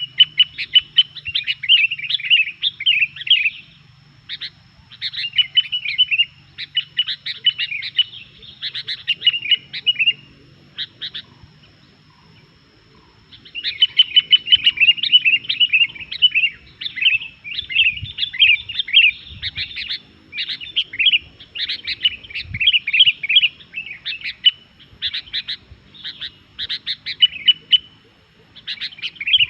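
Sooty-headed bulbul (kutilang) singing energetically ('gacor'): bouts of rapid, bubbly chattering phrases lasting a few seconds each, with a pause of a couple of seconds near the middle.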